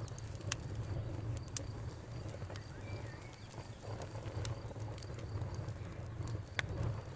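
Wood campfire crackling, with irregular sharp pops over a steady low rumble of the burning wood. A faint steady cricket trill sits high above it, and a short bird chirp comes about three seconds in.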